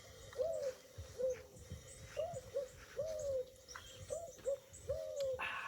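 A bird giving a series of short, low hooting notes, about eight in a row at uneven intervals, each rising then falling in pitch.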